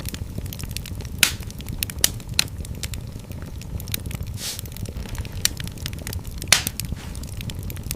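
Fire burning in a fireplace: a steady low rumble of flames under irregular crackling, with a few sharp pops, the loudest about a second in and again near the end, and a brief hiss around the middle.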